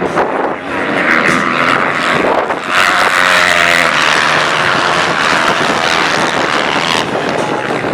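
Racing motorcycle engines at high revs, as bikes run the ice track. The engine note is strongest from about three seconds in.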